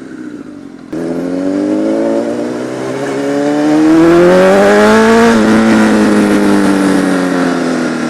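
Sport bike engine accelerating, its pitch climbing steadily for about four seconds, then the throttle closes and the pitch sinks slowly as the bike decelerates.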